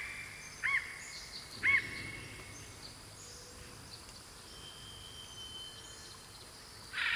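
Birds calling in the wild: two short, loud arched calls about a second apart near the start, then fainter high whistles and one held whistle, over a steady outdoor hiss.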